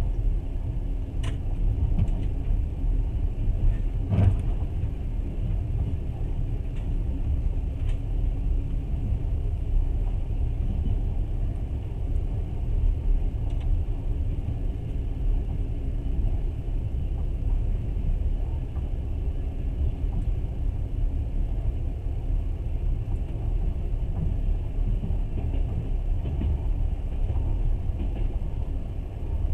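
Passenger train running on the rails, heard from inside the carriage: a steady low rumble, with a sharp knock about four seconds in.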